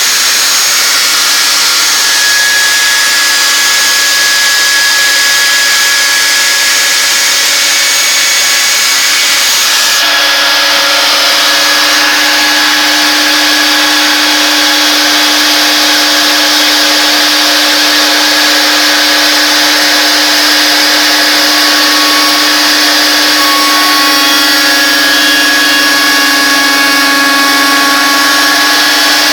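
CNC router spindle running and cutting a wooden stair stringer: a loud, steady machine whine with several held tones, which shift about ten seconds in.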